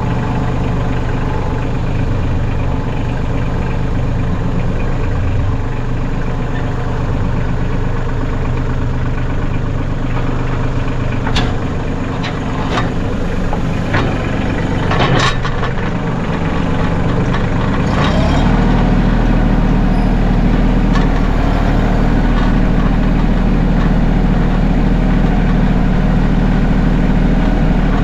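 Mahindra 1626 sub-compact tractor's three-cylinder diesel engine running, with a few sharp knocks and clunks in the middle. About 18 seconds in the engine note turns heavier and steadier.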